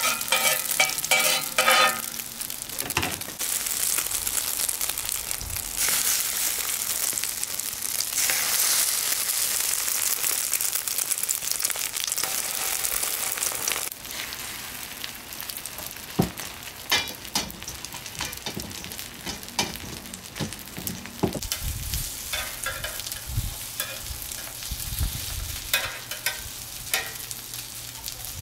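Flour-and-egg-coated seafood and pork jeon sizzling as they fry in oil in a pan. The sizzle is loud at first and drops quieter about halfway through, with scattered clicks and taps of a utensil against the pan.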